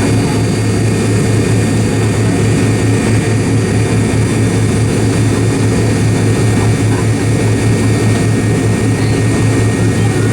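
Cabin noise of a McDonnell Douglas MD-88 airliner, its rear-mounted Pratt & Whitney JT8D jet engines running steadily: a loud, even low hum with a faint high whine above it.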